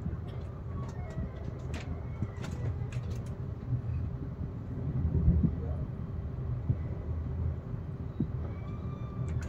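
An SBB train running at the station: a steady low rumble with scattered sharp clicks and knocks in the first few seconds.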